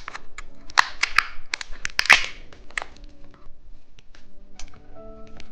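Plastic candy wrapper crinkling and tearing as a gummy sweet is unwrapped: a run of crisp crackles and clicks, thinning to scattered quieter taps after about three seconds.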